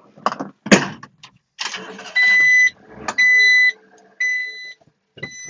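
A sharp knock under a second in, then the Honda mini truck's electronic warning buzzer beeping steadily, about one half-second beep a second.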